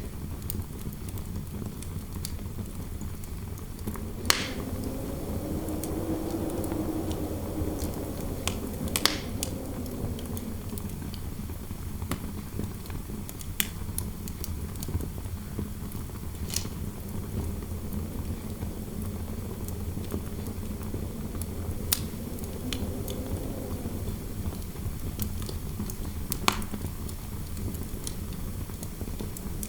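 Fireplace fire burning with a steady low rumble and sharp crackling pops every few seconds, while indoor wind howls softly, rising and falling twice.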